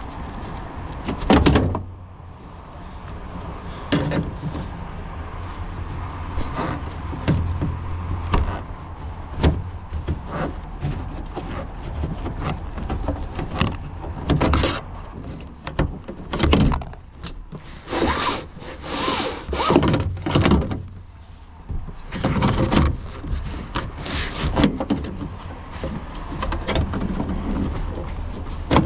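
Irregular knocks, clicks and short scrapes of hand work on the truck's seatbelt hardware as the seatbelt is worked free.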